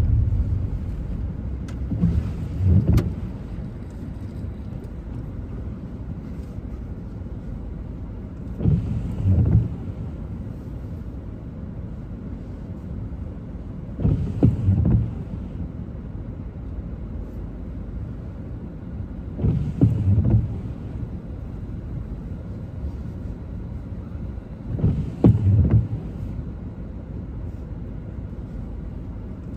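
Car driving on wet roads with a steady low road rumble, while the windscreen wipers make a double sweep, up and back, about every five and a half seconds on an intermittent setting.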